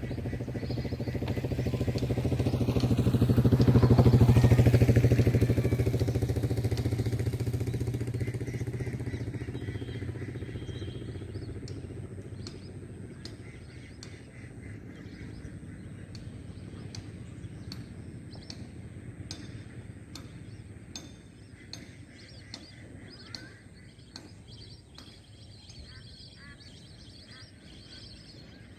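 A motor vehicle's engine passing by, growing louder to a peak about four seconds in and then fading away over the next ten seconds. Faint short ticks and chirps follow as the engine dies away.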